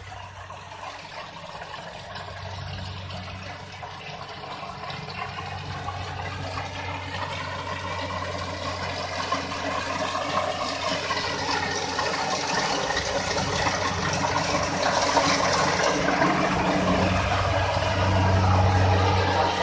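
Kubota DC-60 combine harvester running: a steady low engine hum under a broad rushing noise, growing steadily louder as the machine comes closer.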